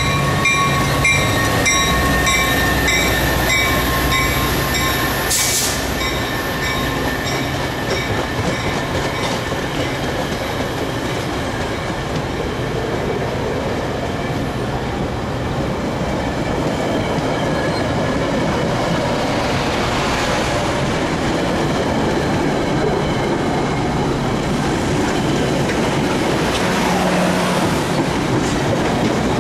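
Metra diesel commuter train passing close by: the locomotive's deep rumble at first, then bi-level passenger cars rolling past with a steady rush of wheels on rail and clickety-clack over the joints. A bell dings regularly for the first few seconds, and there is one sharp clank about five seconds in.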